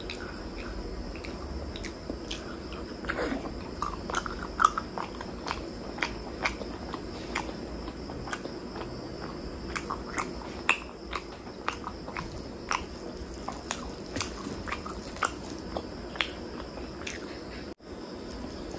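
Close-miked chewing of chicken liver and gizzard curry with rice: wet mouth sounds and sharp lip smacks and clicks, irregular at one to three a second, with fingers squelching in the gravy, over a steady low hum. The sound drops out briefly near the end.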